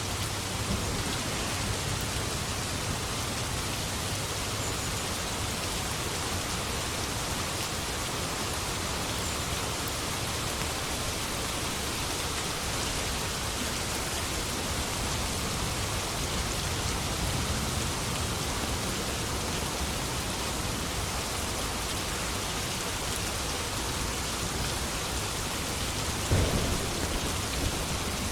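Steady rain falling in an even hiss, with a short, louder clap of thunder near the end.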